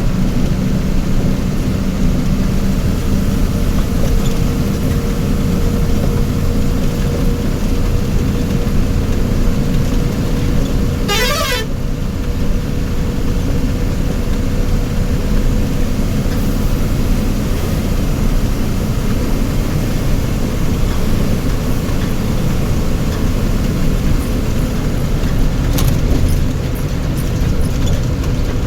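Vehicle engine and road noise running steadily in traffic, with a warbling vehicle horn sounding briefly about a third of the way in and again at the very end.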